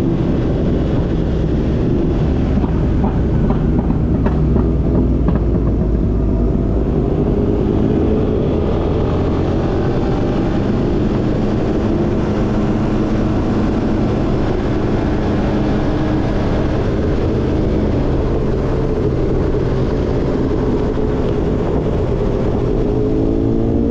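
Car engine and road noise while driving, running steadily; the engine pitch rises right at the end as the car accelerates.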